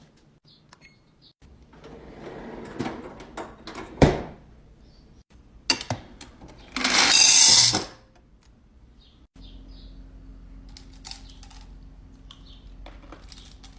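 Handling sounds from restocking a fridge: clicks, knocks and rustling of containers and packaging, with one sharp knock and, a little past the middle, a loud rushing noise lasting about a second.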